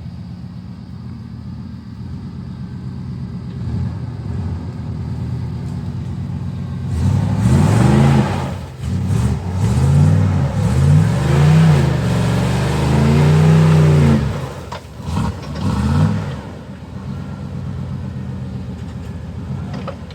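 Off-road vehicle engine running steadily, then revved hard several times in quick succession from about 7 to 16 seconds in, the pitch climbing and falling with each rev, before settling back to a steady run.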